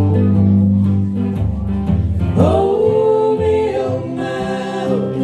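Live band playing a blues song, with guitar and bass; about two and a half seconds in a long note slides up and is held for a few seconds.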